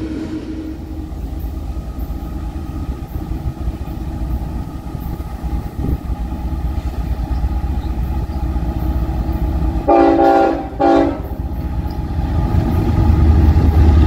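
Train rumbling along the track, with a locomotive horn giving two short blasts about ten seconds in, the first a little longer. Near the end a deep diesel rumble swells and grows louder as the locomotives draw near.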